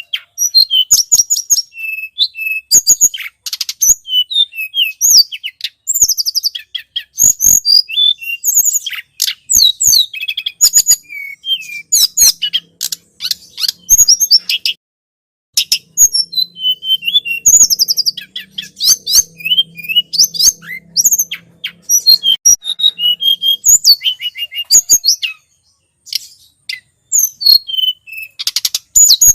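Tledekan gunung bird lure recording: rapid, high-pitched chirps and trilling song phrases in dense bursts, broken by brief pauses twice.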